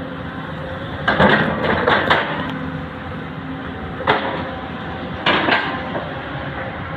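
Diesel excavator running steadily, with a string of heavy knocks and clatters: a cluster about a second in, another single knock past the middle and a pair near the end.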